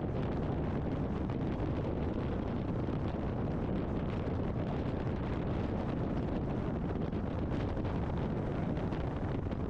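Steady wind rush and road noise of a BMW R 1250 GS Adventure motorcycle under way, picked up by a helmet-mounted com unit microphone.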